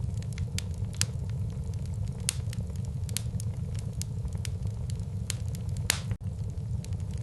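Wood fire in a fireplace crackling: irregular sharp pops and snaps over a steady low rumble of burning logs, with one loud pop about six seconds in.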